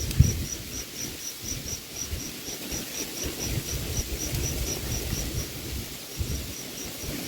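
A cricket chirping steadily in a high, even pulse of about four chirps a second, pausing briefly near the end, over a low rumble of wind on the microphone.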